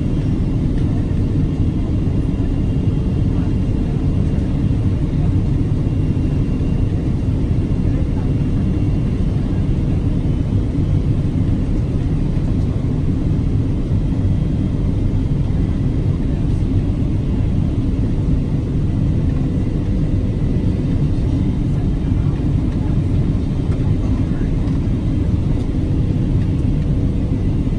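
Steady cabin noise of a Boeing 777-300ER in flight, a low rumble of engines and airflow heard from inside the cabin, with a faint steady hum above it.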